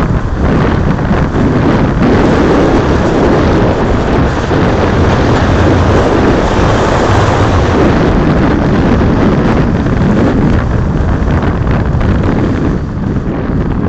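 Wind buffeting the microphone of a moving electric-wheel rider, a loud steady rush that eases off a little near the end.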